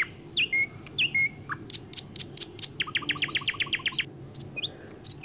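Small bird chirping: scattered short, high chirps, then a quick run of about a dozen sharp chirps in a second, starting about three seconds in.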